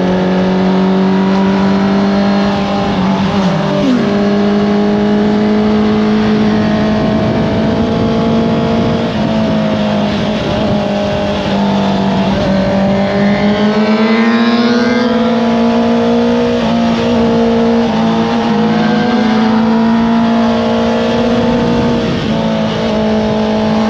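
Honda CBR650R's inline-four engine with an Akrapovič exhaust, running steadily under way with a high, even note. The pitch rises a little about halfway through and holds there.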